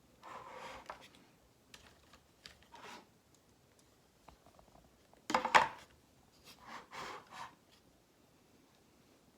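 Small parts and tools being handled on a workbench: intermittent rubs and clicks, with a short, louder clatter of several quick knocks about five seconds in.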